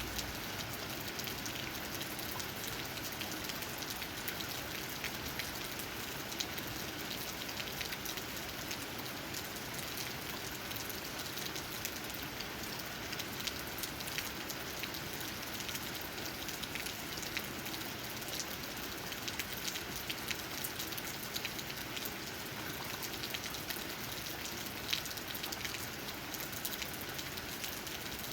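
Steady rain, with drops tapping on tree leaves as a dense scatter of fine ticks over an even hiss. One drop near the end stands out louder.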